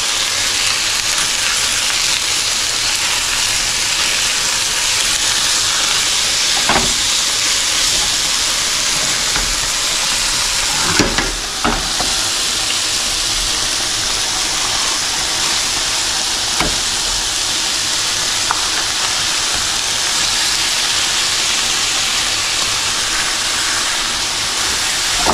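Nannygai fish fillets and a vegetable stir-fry sizzling in hot pans: a steady frying hiss, with a few knocks as the fillets are flipped with a spatula and the pans are shifted on the stove grate.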